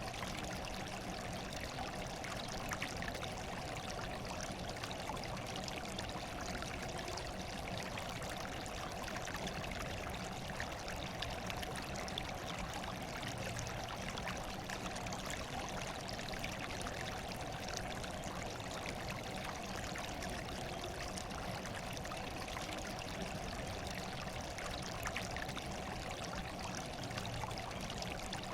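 Running water trickling and splashing in a steady, unchanging flow.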